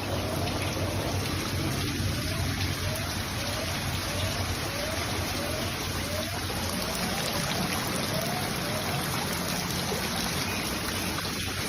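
Steady rushing of floodwater, with a faint short rising chirp repeating about every two-thirds of a second and a low steady hum underneath.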